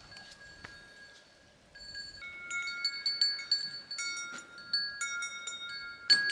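Cowbells on grazing cows clanking irregularly as the animals move, several ringing metallic tones struck unevenly. Faint at first, then louder and more frequent from about two seconds in.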